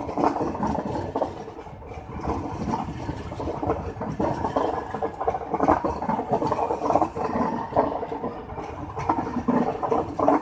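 Passenger coaches of an express train running past at close range, their wheels clattering and rattling on the rails.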